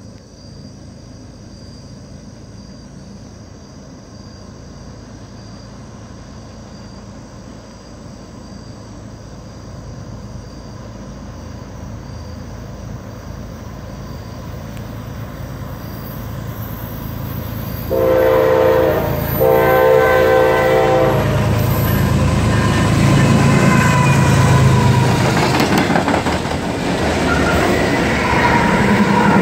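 Diesel freight train approaching, its low rumble growing steadily louder. About eighteen seconds in, the lead GE ES44AH locomotive sounds its multi-note horn twice, a short blast and then a longer one. Then the locomotives run past close by with engine drone and wheels clicking over the rail.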